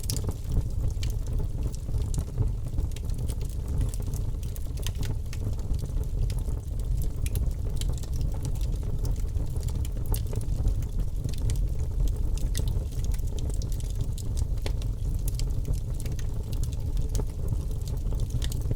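Wood fire crackling, with frequent irregular pops and snaps over a steady low rumble of the flames.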